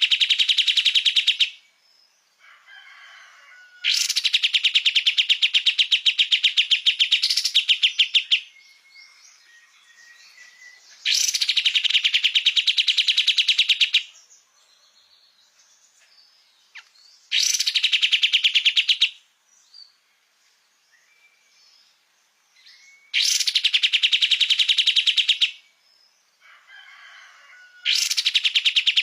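A kapas tembak (pied triller) singing in full voice: loud, fast, evenly pulsed trills in bouts of about two to four seconds, repeated every few seconds, with softer short calls in the gaps.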